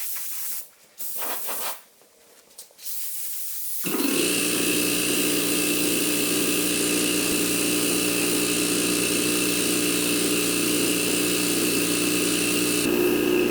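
Paint spray gun hissing in short on-off bursts as primer is sprayed on raw steel. About four seconds in, a loud steady mechanical drone with a constant hum starts suddenly and runs on over it.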